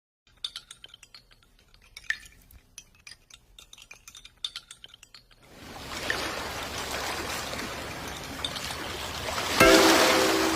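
Many short, sharp, high bird chirps for about five seconds. A steady rushing noise then takes over, and near the end a sudden louder sound with several held tones comes in.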